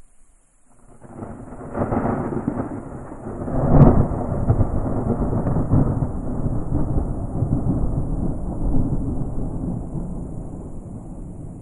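Thunder: a rumble swells about a second in, breaks into a sharp crack near four seconds, then rolls on and slowly fades. Under it runs a steady high chorus of crickets.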